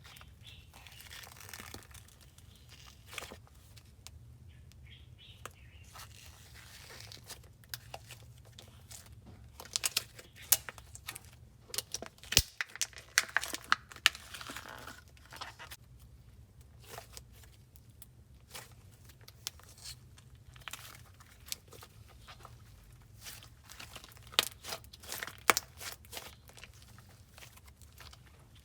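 Slime with jelly cubes worked by hand, giving irregular sticky clicks and crackles. The sounds come in scattered clusters, busiest about ten to fourteen seconds in and again around twenty-five seconds.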